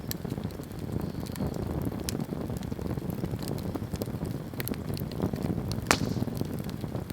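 Wood campfire burning, with a low steady rumble of flame and scattered sharp crackles and pops from the burning wood. The loudest pop comes about six seconds in.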